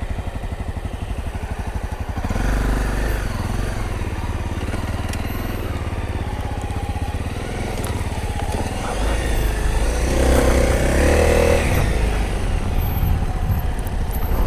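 Honda CRF250 dirt bike's single-cylinder four-stroke engine running at low revs with an even pulse, then louder from about two seconds in as it is ridden, the revs rising and falling.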